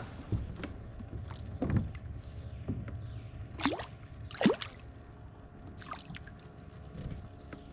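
A kayak being worked through brush at the water's edge: a handful of sharp knocks and splashes against the hull and water, the loudest about four and a half seconds in, over a steady low rumble.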